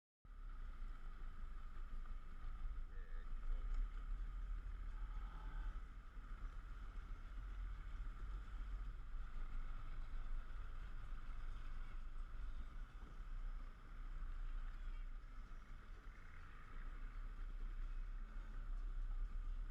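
Speedboat under way at speed: a steady mix of engine and rushing water, with low wind rumble buffeting the microphone. It cuts in abruptly just after the start.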